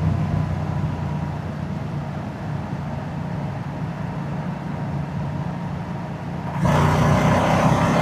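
Moto Guzzi motorcycle's V-twin engine and exhaust running steadily on the ride. About seven seconds in the sound suddenly grows louder, with a rush of noise.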